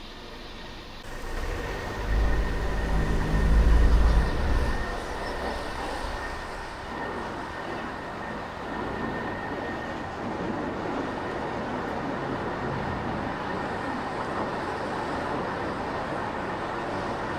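Traffic and road noise heard from a car driving through city streets. A heavy low rumble swells and fades between about two and five seconds in, then gives way to a steady road hiss.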